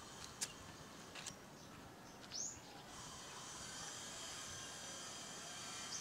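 A few short, high bird chirps in the first half, one a quick falling sweep about two seconds in, over a faint steady outdoor background hiss.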